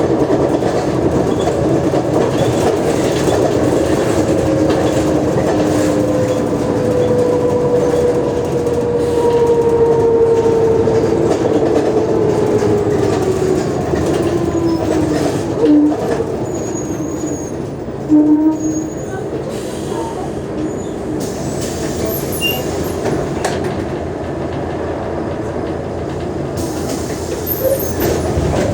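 Mercedes-Benz O345G articulated bus running, with a whine that slowly falls in pitch over about ten seconds as it slows, then two short squeals a couple of seconds apart. The bus is showing noticeable wear, which the owner says can be heard in the sound.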